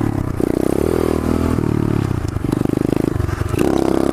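Pit bike's single-cylinder engine running hard under throttle. The engine note breaks off briefly several times and picks up again, as with throttle changes or gear shifts, and pulses rapidly about three seconds in.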